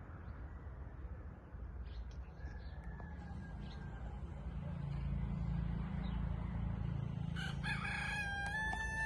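A rooster crowing once, starting about seven and a half seconds in, over a steady low rumble.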